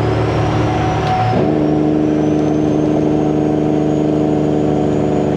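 Semi truck's diesel engine running under way through 8-inch exhaust stacks, its note changing abruptly about a second in, with a faint high turbo whistle slowly rising above it.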